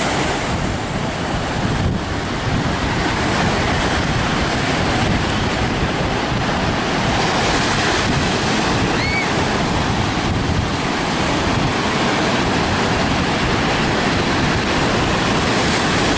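Rough sea surf breaking on the beach under a strong wind that buffets the microphone, a steady dense rush of noise.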